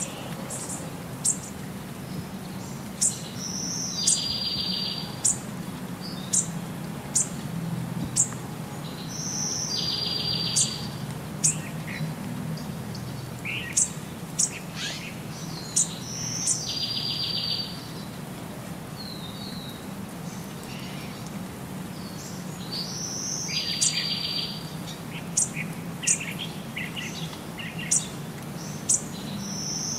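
Birds chirping and trilling: short sharp high chirps about once a second and a buzzy trill about every six seconds, repeating evenly, over a steady low hum.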